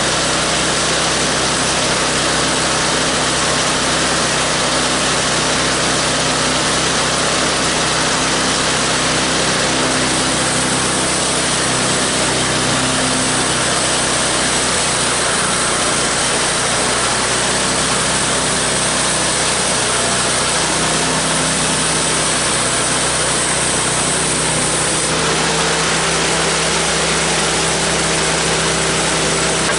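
Homemade bandsaw sawmill running steadily, its engine driving the band blade through a log. A high hiss joins in from about ten seconds in until about twenty-five seconds.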